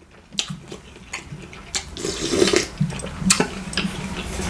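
Liquid sloshing with repeated clicks of a utensil against a dish, growing louder about halfway through: the sounds of eating and stirring broth close to the microphone.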